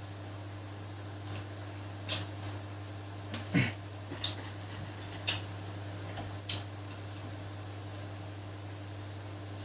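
Scattered light clicks and knocks, about eight over several seconds, with one short falling squeak about three and a half seconds in, over a steady low hum.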